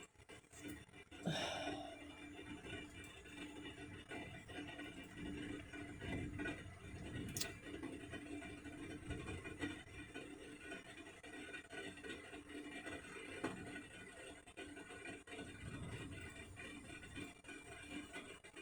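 Faint music from a television playing in a small room, with steady held tones and no speech.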